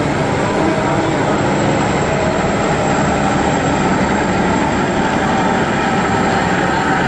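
A ship's engine running steadily, a constant loud drone with a rushing noise over it.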